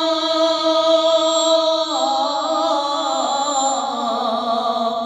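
A voice singing a devotional Urdu naat, holding one long note for about two seconds, then dropping in pitch into a wavering, ornamented melisma.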